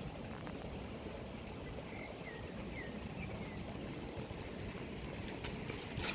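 Steady rush of running water, like a stream. A bird gives a short series of faint, falling chirps about two to three and a half seconds in, and a few sharp clicks come near the end.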